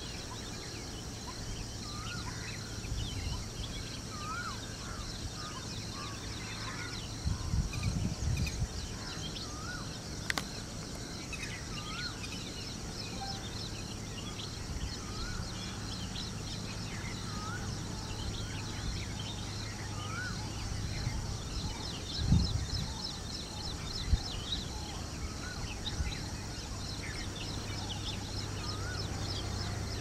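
Birds calling: one bird repeats a short rising-and-falling call about every two seconds while others chirp higher up. Under them runs a faint low drone of the approaching WDP-4D diesel locomotive, growing slightly louder, with a few brief low thumps.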